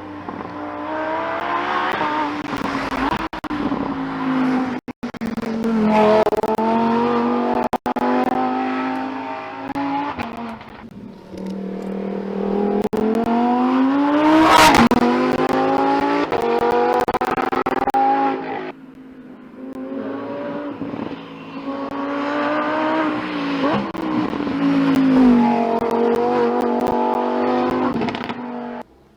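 Lamborghini Huracán Tecnica's naturally aspirated 5.2-litre V10 accelerating hard in three pulls, its pitch climbing through the revs, with lifts between them and one sharp crack about halfway.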